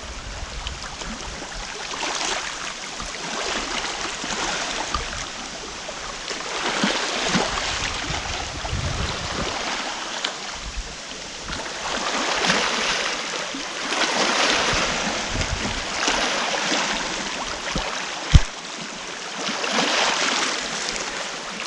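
Lake waves washing and lapping against the shore, swelling and falling back every couple of seconds, with one sharp click near the end.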